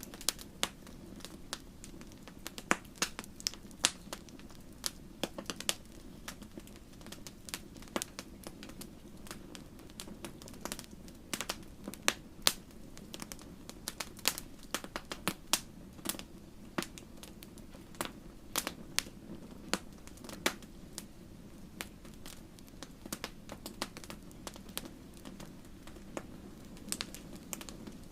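Wood fire crackling: irregular sharp pops and snaps, several a second at times, over a steady low rush of flame.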